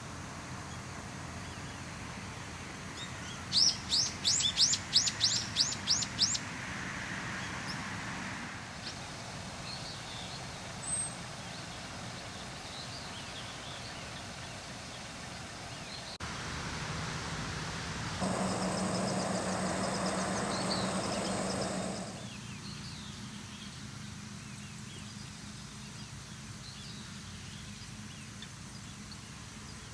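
A bird calls a quick run of about ten sharp, high notes a few seconds in, with faint chirps here and there afterwards, over quiet outdoor ambience. Past the middle a steady mechanical hum rises for a few seconds and cuts off suddenly.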